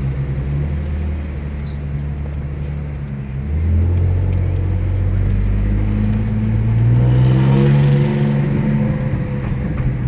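Alfa Romeo 156's 3.0 V6 (Busso) engine running through an aftermarket sports exhaust while the car is driven, its pitch rising steadily under acceleration from about a third of the way in, then easing off near the end.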